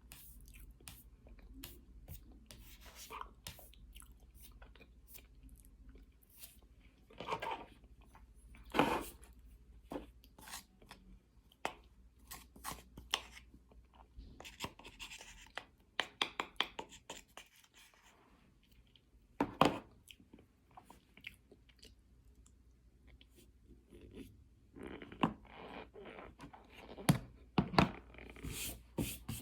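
Close-up chewing and crunching of cornstarch, with a steady scatter of small crackling clicks. Louder crunches come about seven, nine and twenty seconds in, and a dense run of them comes near the end.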